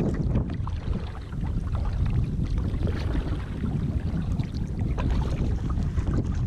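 Wind buffeting the microphone on a kayak, a steady low rumble, with small water splashes and ticks scattered through it.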